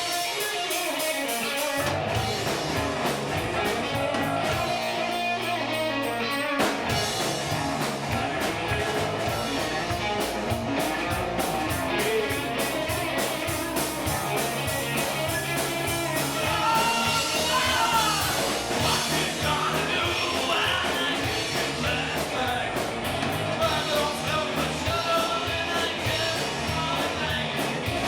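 A rock band playing live: drums keeping a steady beat under guitar, with a singing voice.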